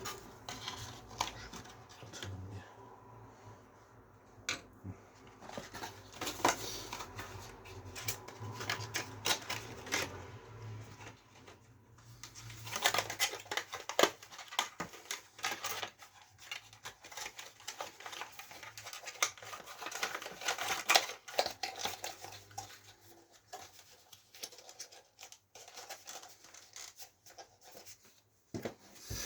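Irregular small clicks, taps and rustles of PC parts and their packaging being handled, busier from about halfway through, over a low steady hum in the first half.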